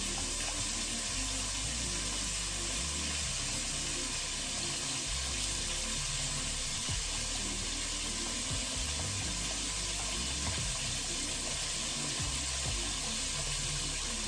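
Chicken pieces deep-frying in hot oil, a steady sizzle.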